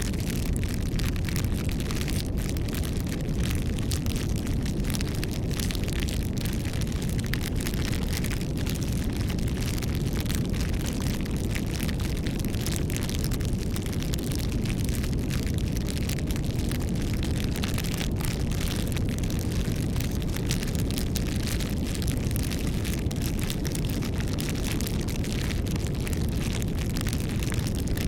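Wood bonfire burning: a steady low rumble of flames with frequent small crackles and pops.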